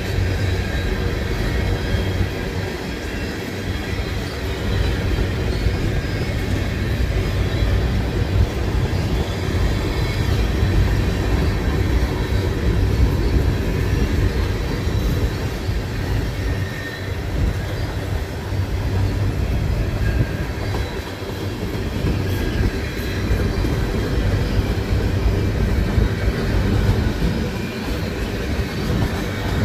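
CN manifest freight train's cars rolling steadily past: continuous noise of steel wheels on the rails, with faint high squealing from the wheels.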